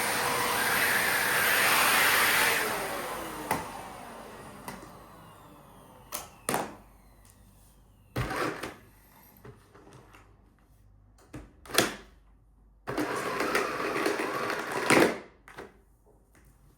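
Miele vacuum cleaner switched off, its motor winding down with a falling whine over a few seconds. Scattered clicks and knocks follow, and near the end a rattling, whirring noise of about two seconds that ends in a sharp knock.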